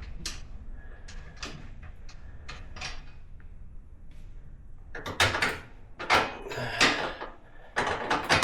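Hand tools and metal parts clinking and clunking as a UTV's rear wheel hub is taken apart: scattered sharp knocks, busier and louder from about five seconds in.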